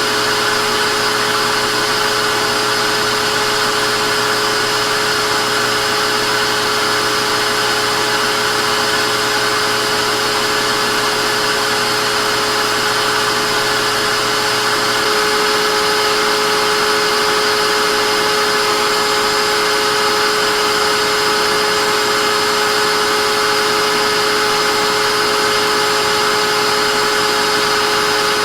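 Vacuum cleaner running steadily, a loud rushing of air with a constant motor whine. About halfway through a low hum drops out and the sound gets slightly louder.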